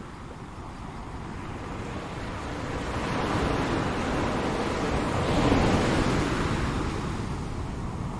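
Ocean waves breaking on a shore: the surf swells over a few seconds, is loudest about five and a half seconds in, then washes back and fades.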